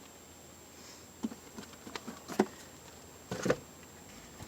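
A few light clicks and knocks of hard plastic as the latch and lid of a portable compressor fridge are worked open. The loudest knock comes about halfway through, with a short cluster of clicks after it.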